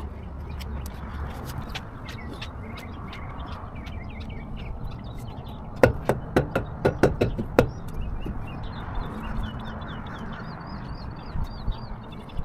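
Small birds chirping over a low outdoor rumble, with a quick run of about eight knocks or taps between six and seven and a half seconds in.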